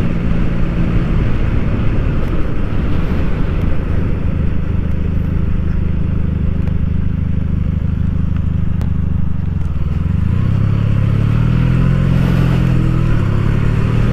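A motor vehicle's engine running steadily under road noise. About ten seconds in, the engine's pitch shifts up and then rises slowly, as when it speeds up.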